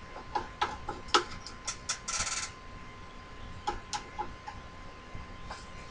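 Light, irregular clicks and ticks of metal parts as a milling machine is worked by hand, with a short scrape about two seconds in.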